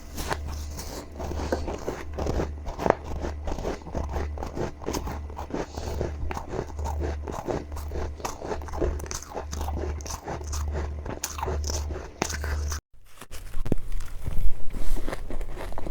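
Close-miked biting and chewing of powdery freezer-frost snow ice: a dense run of crisp crunches. They break off sharply about 13 seconds in, and louder single crunches follow near the end.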